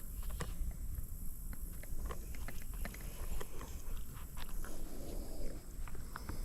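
Irregular crunching clicks of footsteps over creek rocks and gravel while wading, over a steady low rumble.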